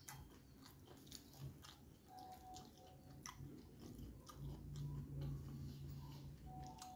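A person chewing martabak with soft, sharp mouth clicks. A low steady hum runs for about two seconds past the middle.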